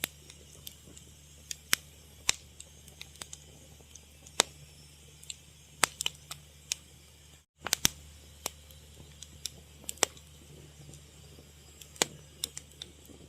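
Fire crackling, with irregular sharp pops and snaps over a low steady background. The sound cuts out for a split second a little past halfway.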